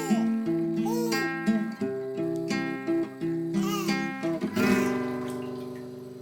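Acoustic guitar music with strummed chords, the last chord ringing out and fading near the end.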